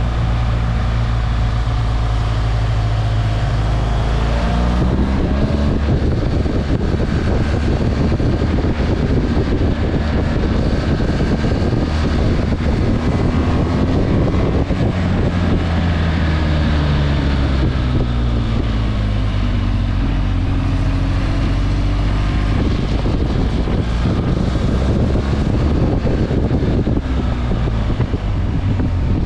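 Motorcycle engine running under way, its pitch rising and falling several times with the throttle, with wind noise on the microphone.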